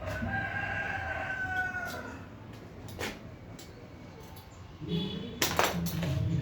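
A long animal call lasting about two seconds, falling slightly in pitch, over a steady low rumble; a few sharp clicks follow later.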